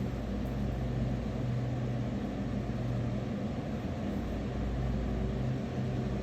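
Steady low mechanical hum, like an idling engine, holding an even pitch.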